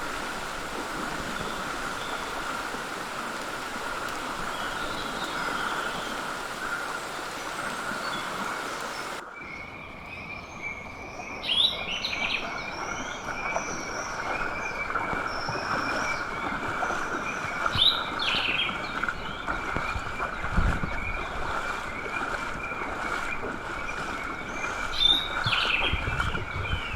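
Tropical rainforest ambience: birds calling in short bursts over a steady high drone. The sound changes abruptly about nine seconds in, when a second steady tone joins.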